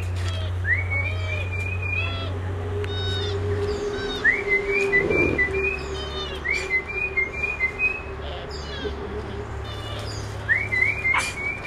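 A bird repeating a whistled call about five times: each one a quick upward swoop onto a held, slightly wavering note, with short high chips in between, over a steady low hum.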